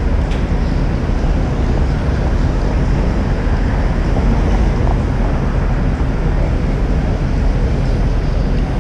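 Wind rushing over a GoPro action camera's microphone on a moving bicycle, a loud steady rush heaviest in the low end, with street traffic underneath.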